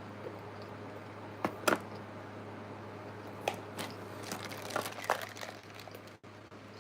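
Close-miked eating: a few sharp crunches as crunchy food is bitten and chewed, in two or three clusters, over a low steady hum.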